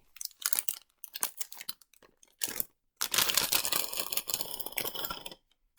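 A small parcel's packaging being opened by hand: scattered crackles and rustles, then a continuous tearing and crinkling lasting about two and a half seconds.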